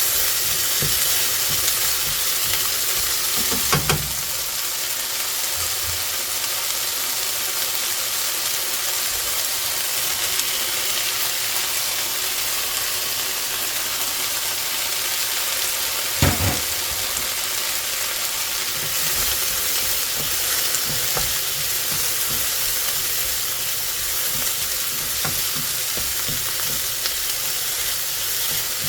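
Food frying in a pan, sizzling steadily as it is stirred, with two short knocks of the utensil against the pan, about 4 and 16 seconds in.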